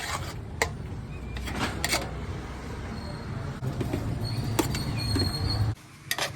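Busy roadside food-stall background: a steady low rumble with a few sharp clinks and knocks, cutting out abruptly near the end.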